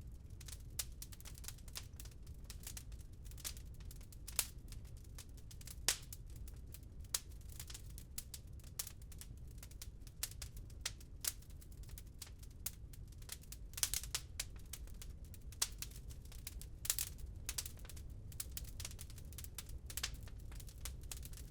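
Wood fire crackling in a fireplace, with irregular small snaps and a few louder pops, over a steady low rumble of rain.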